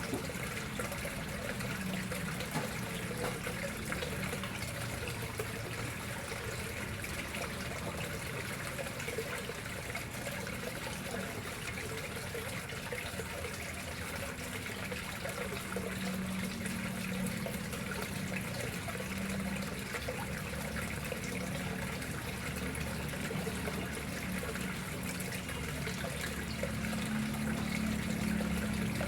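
Water flowing and trickling steadily into a koi pond.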